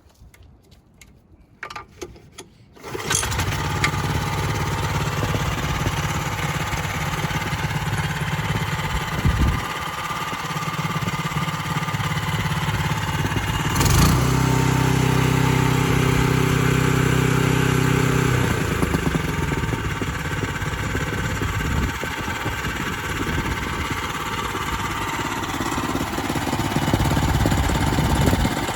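Kubota TA700 walk-behind cultivator's 6.2 hp gasoline engine starting after a few clicks, catching about three seconds in and then running steadily. Around the middle the engine note turns louder and more even for a few seconds before settling back.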